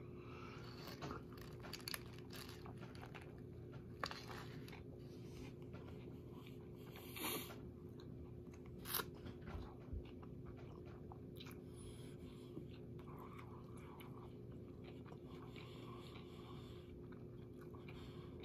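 A person chewing a mouthful of sub sandwich close to the microphone, with occasional short, louder mouth noises and smacks scattered through. A steady low hum runs underneath.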